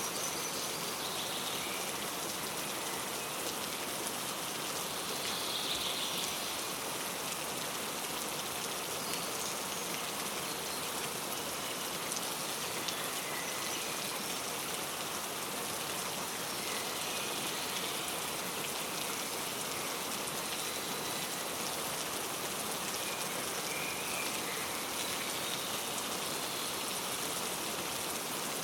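Steady rain falling, with a few faint bird chirps now and then.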